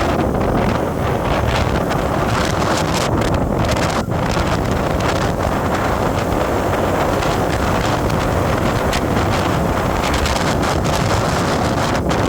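Steady wind buffeting the microphone over the rumble of a moving vehicle, with a brief dip in the noise about four seconds in.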